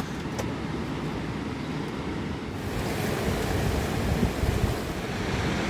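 Steady rush of a mountain river's flowing water, with wind gusting on the microphone.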